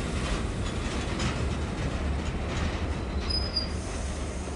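Freight train of flat wagons rolling slowly, with a steady low rumble, faint clanks from the wagons and a short, high wheel squeal about three seconds in.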